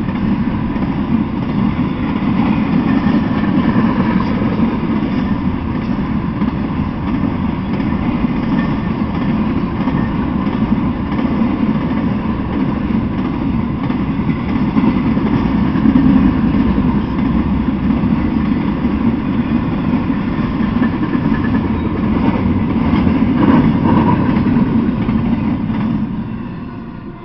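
Intermodal freight train of well cars loaded with trailers and containers rolling past, a steady rumble of wheels on rails. It fades near the end as the last cars go by.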